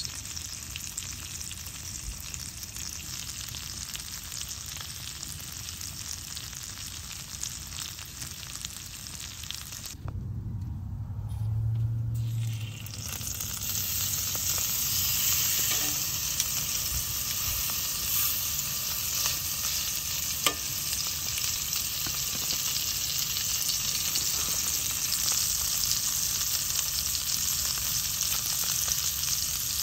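Yellow potatoes frying in butter in a cast iron skillet with a steady sizzle. After a short low hum around 10 seconds in, a ribeye steak goes into the hot pan and the sizzle turns louder and fuller, with one sharp click near the 20-second mark.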